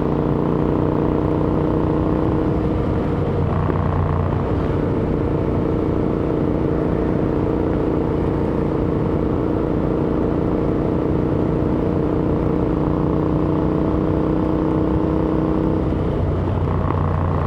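Royal Enfield Interceptor 650's parallel-twin engine running at steady riding revs through AEW aftermarket exhausts. The engine note changes briefly about four seconds in and again near the end.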